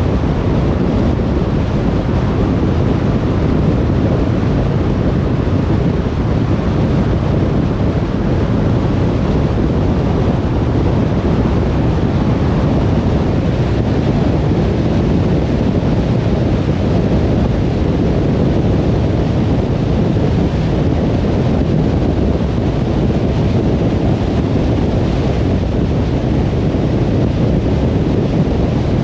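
Steady low rumble of a car driving at speed on a motorway: tyre and wind noise, even throughout.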